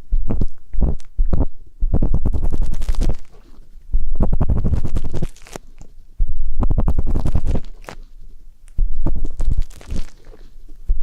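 Ear pick scraping and rubbing right against the microphone in ear-cleaning ASMR: about five bursts of dense crackly scratching, each a second or more long, with a deep rumble under each and quieter gaps between.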